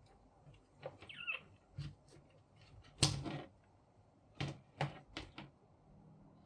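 Clicks and knocks of parts being handled on a disassembled paper laminator: a brief squeak about a second in, one louder knock about three seconds in, then several quicker clicks.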